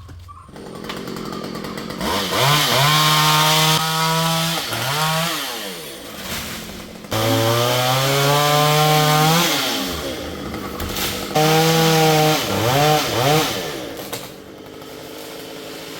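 Stihl two-stroke chainsaw revved up to full throttle three times, its pitch falling back toward idle between the runs, with a few quick blips of the throttle after the last one.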